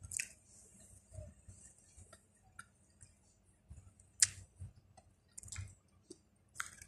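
Close mouth sounds of someone chewing food: soft, scattered wet clicks and smacks with low thuds, and a sharper click about four seconds in.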